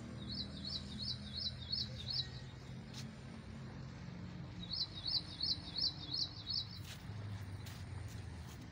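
A songbird calling: two runs of six or seven quick, high, identical notes, about three a second, one at the start and another about five seconds in.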